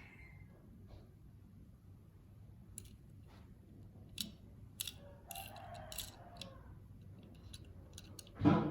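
Hands handling a die-cast toy car's blister packaging: scattered light clicks, crinkling plastic about five to six seconds in, and a louder single knock near the end.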